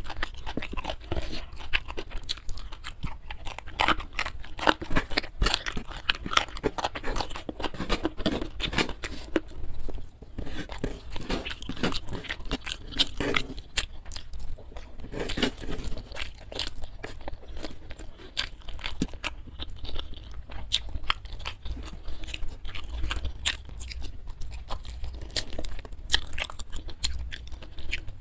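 A person chewing mouthfuls of rice and spiced food close to the microphone: a dense run of wet mouth clicks and crunches, many a second, with short lulls.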